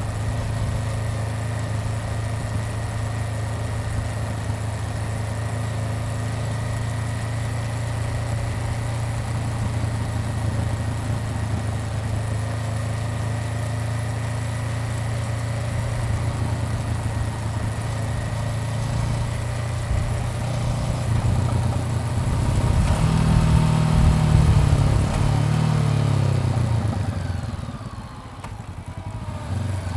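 Honda CBR400R parallel-twin engine running at a steady, low, idle-like speed. About 22 seconds in, the revs rise as it accelerates, then fall away with a sharp drop in level near the end.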